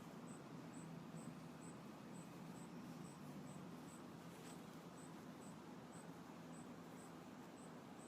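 Faint insect chirping: short high chirps, evenly spaced about twice a second, over a low steady hum.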